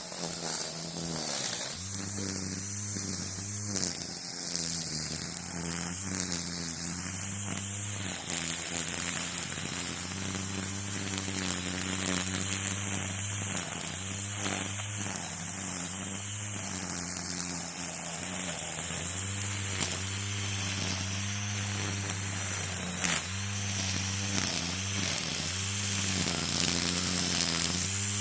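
Gas string trimmer (weed eater) running, its engine speed stepping up and down again and again as the throttle is squeezed and eased while it cuts, with a high whirring hiss over the engine note.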